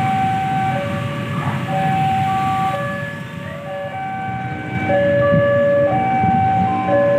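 Level-crossing warning alarm sounding a two-tone signal, alternating between a higher and a lower pitch about once a second, warning that a train is approaching or passing the crossing. A low rumble runs underneath.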